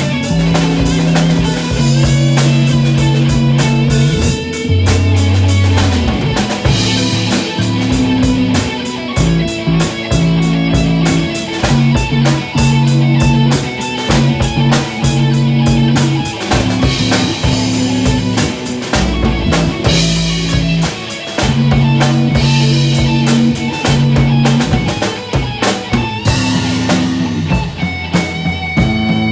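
Instrumental rock jam in A major: a drum kit keeping a steady beat with cymbals, long sustained bass notes that change every second or two, and electric guitars over them.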